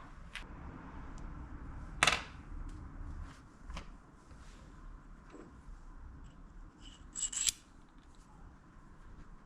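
Small workshop handling sounds: scattered sharp clicks and knocks, with a loud click about two seconds in and a short ringing clatter about seven seconds in.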